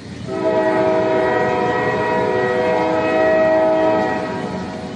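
Train horn sounding one long, steady blast, starting just after the beginning and fading away near the end, over a low rumble.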